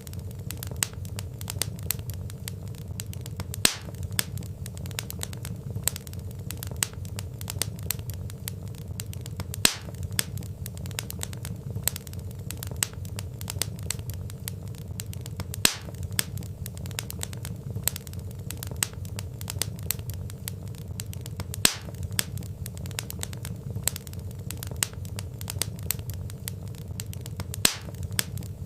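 Log fire crackling: a steady low rush under dense small crackles, with a sharper, louder pop about every six seconds.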